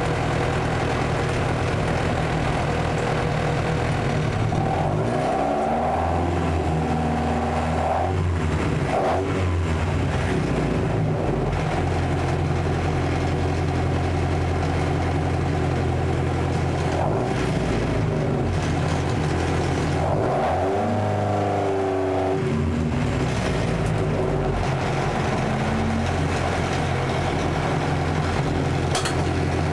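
Car engine running hard and revving, its pitch sweeping up and down twice: once about five seconds in and again about twenty seconds in.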